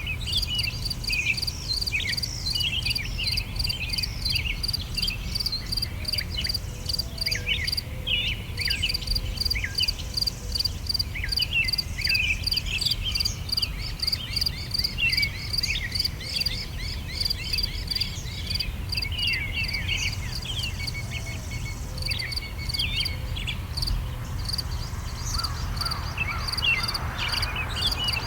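Summer outdoor ambience: many small birds chirping and twittering, over a steady high, pulsing insect trill that drops out briefly twice, with a low steady rumble underneath.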